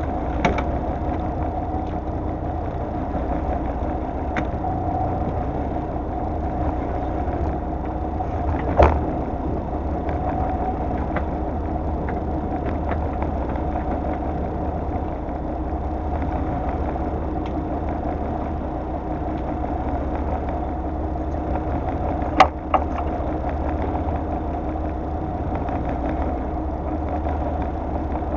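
A fishing boat's engine idling with a steady drone. A few sharp knocks sound over it, once about a third of the way in and twice in quick succession later on.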